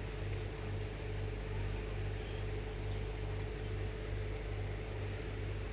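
A steady low machine hum with a constant higher tone over it, pulsing slightly in the bass.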